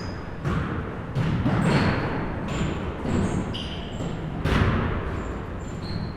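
A basketball bouncing on a gym floor in an irregular series of thuds, with several short high sneaker squeaks between them.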